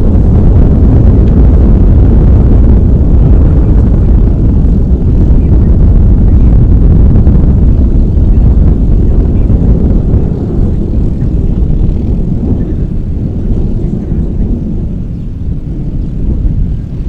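Boeing 747 cargo jet's four turbofan engines at takeoff thrust: a loud, deep, steady rumble that eases off after about ten seconds.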